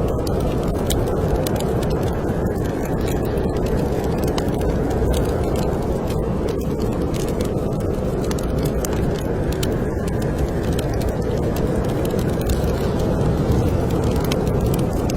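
Steady, loud roar of snowstorm wind with a wood fire crackling over it in many small, irregular pops.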